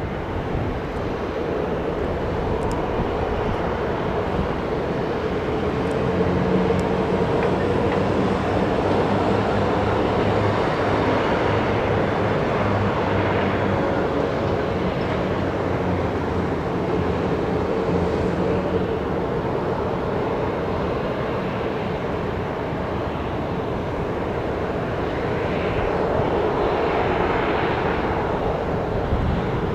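Jet airliner engines running with a steady roar and a held hum underneath, swelling a little in the middle and again near the end.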